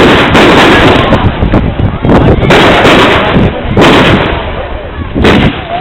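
Aerial fireworks going off: a string of loud bangs and crackling bursts, one after another every second or so, the longest rolling for about a second just past halfway.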